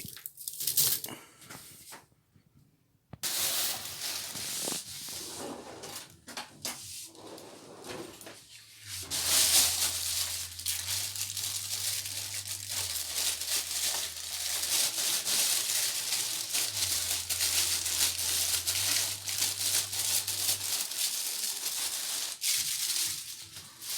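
Kitchen handling noises: scattered knocks and rustles, then, from about nine seconds in, some twelve seconds of dense crackling rustle with a faint low hum under it.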